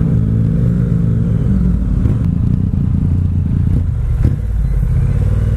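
Motorcycle engine running steadily at low revs, its pitch dipping slightly about two seconds in.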